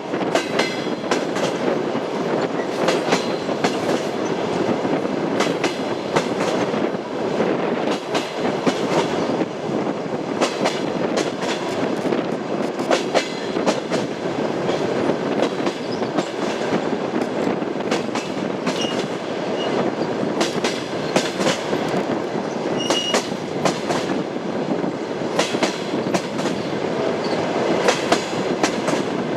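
Passenger train wheels clattering over the rail joints of jointed track: a steady rolling rumble broken by groups of sharp clicks as each bogie crosses a joint, with a brief squeak twice in the second half.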